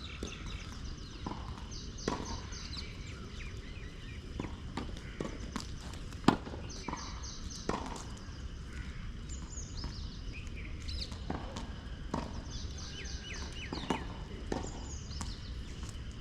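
Scattered sharp knocks of tennis balls being struck and bouncing on the court, the loudest about six seconds in, with birds chirping repeatedly over a steady low background noise.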